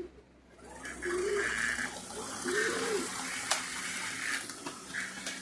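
Tyco model diesel locomotive running around the layout's track: a steady whirring rattle of motor and wheels on rail that comes up about a second in and holds. A bird coos a couple of times underneath.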